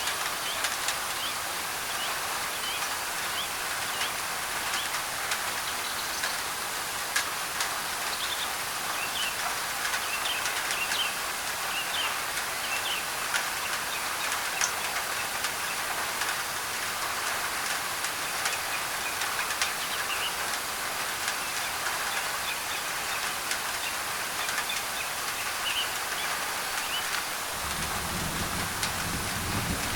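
Steady rain pattering on a thin tin roof, with birds chirping through it. A low rumble of thunder starts near the end.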